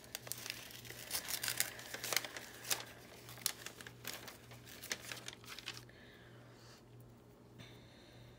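Small piece of paper being torn and handled by hand, crackling and crinkling for about six seconds, then going quiet.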